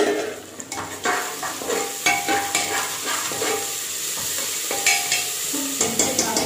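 Chopped onions, bay leaves and ginger-garlic paste sizzling in hot oil in an aluminium pressure-cooker pot, while a stirring utensil scrapes and knocks against the metal with frequent irregular clicks.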